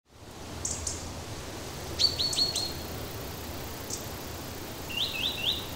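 Small songbird chirping in short runs of quick high notes, a group of four about two seconds in and three more near the end, over a steady low hum.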